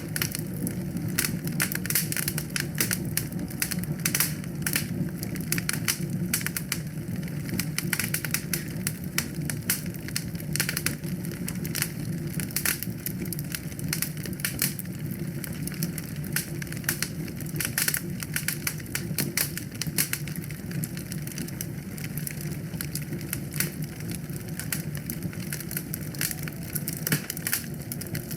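Wood fire in a fireplace crackling: dense, irregular pops and snaps over a steady low rumble of the flames.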